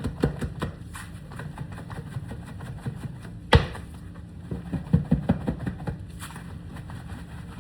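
Kitchen handling noises: scattered clicks and knocks from utensils and dishes, with one sharp knock about three and a half seconds in and a quick run of knocks a second later, over a steady low hum.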